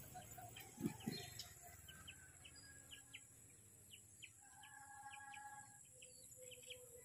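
Faint outdoor ambience with small birds chirping in short high notes a couple of times a second, and a longer pitched call in the middle. Two soft thumps about a second in.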